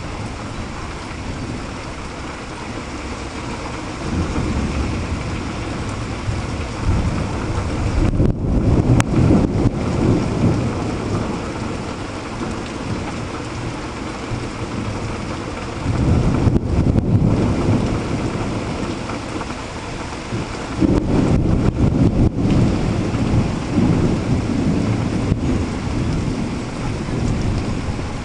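Heavy rain falling steadily through a thunderstorm, with long low rolls of thunder rumbling three times: starting about four seconds in, again around sixteen seconds and around twenty-one seconds.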